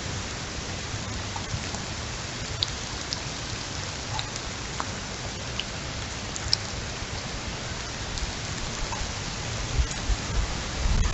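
Steady rain falling in a severe rainstorm, an even hiss with scattered sharp drop ticks.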